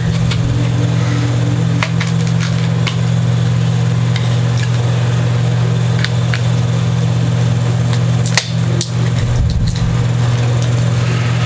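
A steady low machine hum, with scattered light clicks and taps from a small guitar nut being handled and taken out of its plastic package; one louder knock about eight seconds in.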